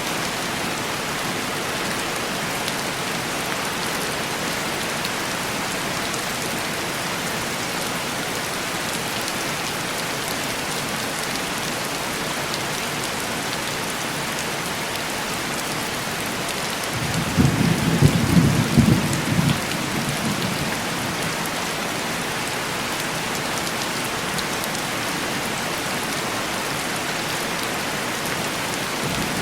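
Heavy rain tapping steadily on window glass, with a rumble of distant thunder a little past halfway that swells and fades over about four seconds.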